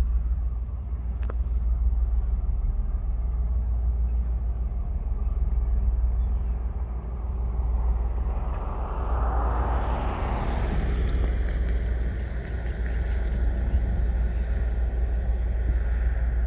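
Coal train hauled by a TasRail DQ class diesel locomotive passing, a steady low rumble that swells about halfway through as the locomotives go by, followed by the coal wagons rolling past.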